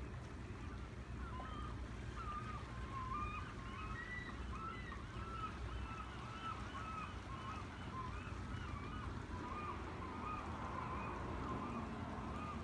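Birds calling: a run of short honking calls, about two a second and partly overlapping, over a low steady rumble.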